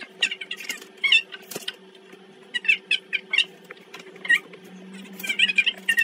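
Small animal chirping: quick, high, wavering chirps in short bursts several times, bird-like, over a faint steady hum.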